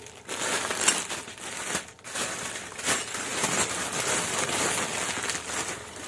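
Crinkling and rustling of a packet being handled while a spare fan bushing is picked out of it, with a few sharp clicks.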